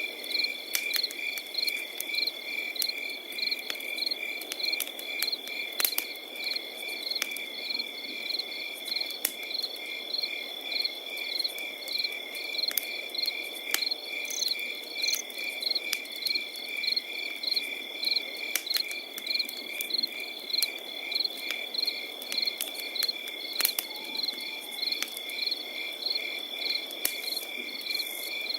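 Crickets chirping in an even, repeating rhythm over a steady high trill, with a campfire crackling and giving sharp pops now and then.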